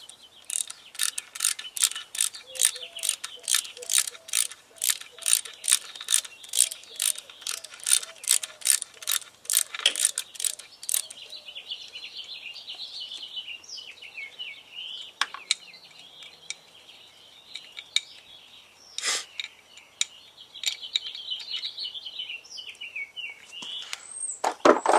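Hand ratchet wrench clicking steadily, about three clicks a second, as it backs out the 8mm bolt holding the cylinder on a Yamaha YZ250F engine; the clicking stops about eleven seconds in. A fainter wavering high sound follows, with a few single clicks and a sharp metal knock near the end.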